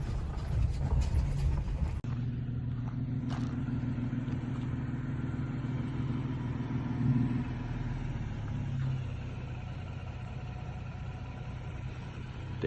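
Clattering, rattling road noise for about two seconds, then a truck's engine running at a steady, even speed while driving.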